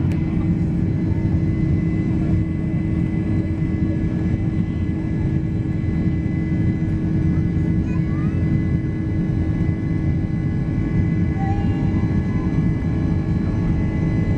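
Steady jet-engine and airflow rumble of a Boeing 767-300 heard from inside the passenger cabin, deep and even, with a constant hum.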